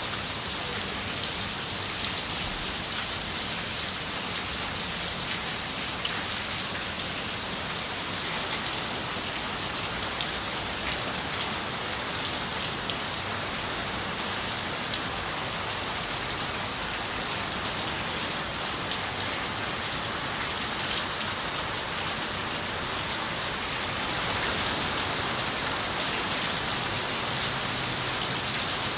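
Steady rain on a window, a continuous hiss with scattered sharp drop ticks; it grows a little heavier near the end.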